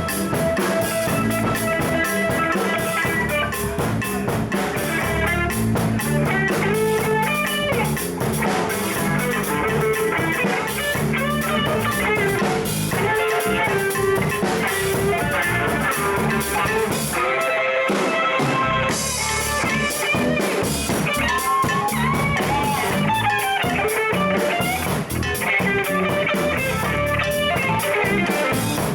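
Live instrumental rock-blues jam: guitar playing over a drum kit and bass.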